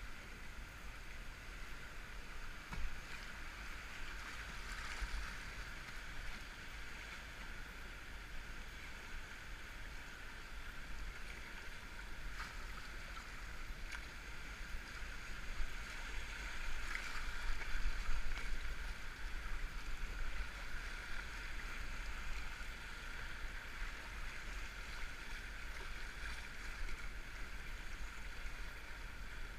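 Steady rushing of river water around a kayak, muffled through a GoPro's waterproof case, with an occasional faint knock.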